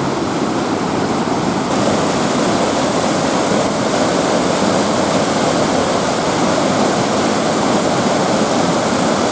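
Small waterfall and rapids on a river rushing steadily, a loud continuous roar of falling water.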